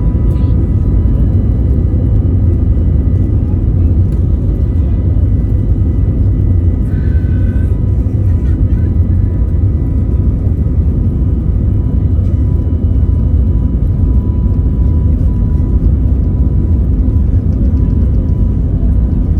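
Airbus A321neo jet engines and airframe heard as a steady, loud low rumble with faint steady whining tones above it.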